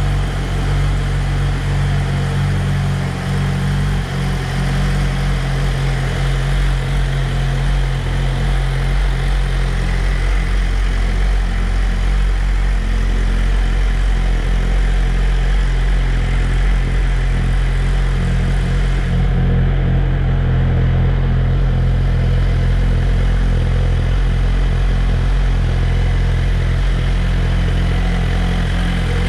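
Suzuki GSX-R1000R inline-four engine idling steadily as it warms up from cold on its first heat cycle for a new engine.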